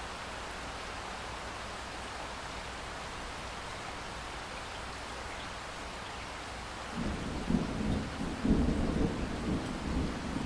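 Steady rain falling. About seven seconds in, a loud, low rolling rumble of thunder breaks in and keeps rumbling.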